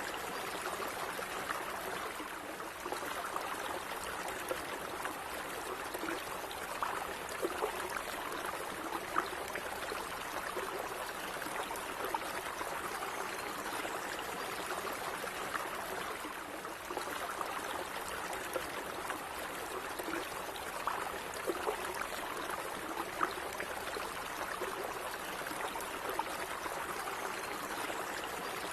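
A small stream of water running steadily over stones, with a constant babble and little splashes and gurgles scattered through it.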